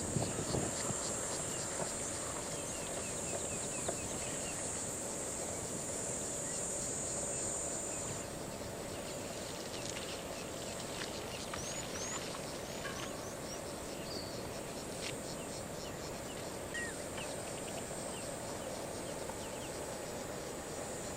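Outdoor bush ambience. A steady high-pitched insect buzz cuts off about eight seconds in, and short bird chirps and whistles are scattered through the second half.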